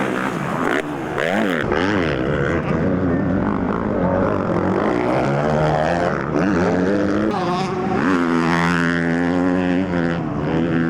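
Several motocross bikes racing, their engines revving up and down over one another as the riders work the throttle, with a steadier held note from about eight seconds in.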